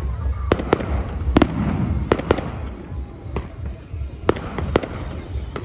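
Fireworks going off: a quick, irregular run of about ten sharp bangs and cracks from bursting shells, over a steady low rumble.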